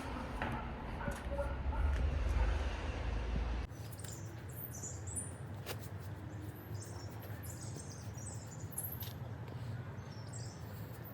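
Small birds chirping in short high calls over quiet outdoor background. For the first few seconds a low rumble lies under them; it stops abruptly about four seconds in.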